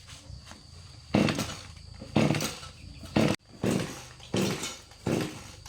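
Kubota diesel engine being tried, firing in a string of uneven bursts, about one a second, each dying away before the next.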